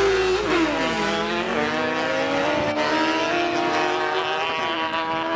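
Drag-racing car's engine at full throttle: held at high revs, the pitch drops sharply about half a second in as it launches, then climbs steadily as the car accelerates down the strip, with a brief dip near the end like a gear change.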